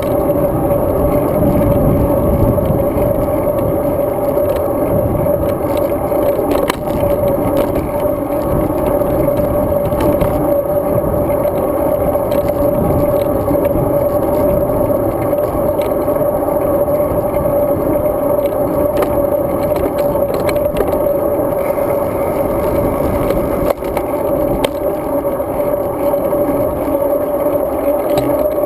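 Steady wind and road noise from a road bike being ridden, with a constant hum and scattered light clicks and rattles.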